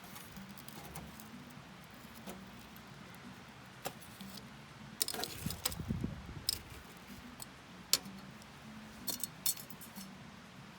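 Wood campfire crackling, with irregular sharp pops: a cluster about five seconds in and the sharpest single pop about eight seconds in.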